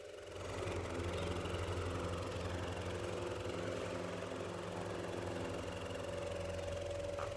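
Antique Ericsson desk fan's electric motor running with a steady hum, growing louder over the first second and then holding even.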